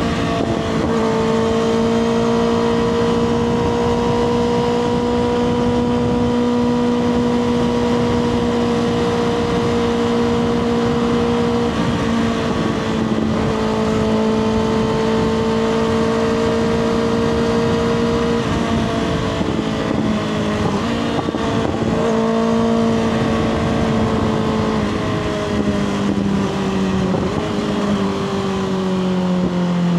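2024 Kawasaki ZX6R inline-four sport bike engine through a Two Brothers slip-on exhaust, running at steady high revs under way with wind rushing past. The engine note breaks briefly about halfway through and again about two-thirds in, and the revs fall near the end as the bike slows.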